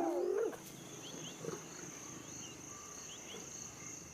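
A loud, pitched call from a wild predator in the lion–hyena standoff cuts off about half a second in. After it, a quieter steady high insect trill carries on, with short rising chirps repeating every second or so.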